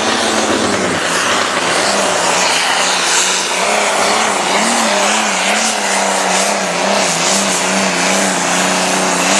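Turbocharged diesel engine of a limited pro stock pulling tractor running hard at high revs. It gives a loud, steady howl whose pitch wavers slightly up and down.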